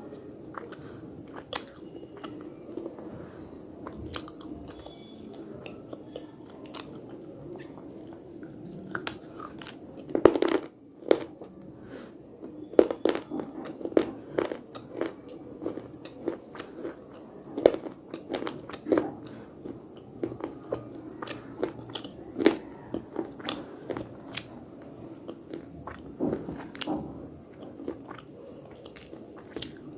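Someone biting and chewing slate: sharp crunchy snaps scattered through, coming thicker and louder from about ten seconds in.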